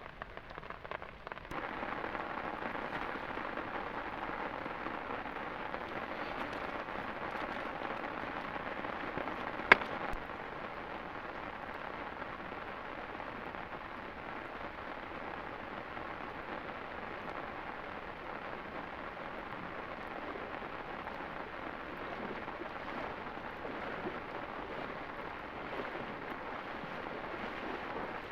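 Rain falling steadily, an even hiss that grows louder about a second and a half in, with a single sharp click about ten seconds in.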